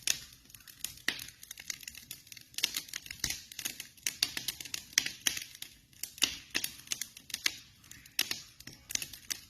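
Campfire burning, with irregular sharp crackles and pops coming several times a second.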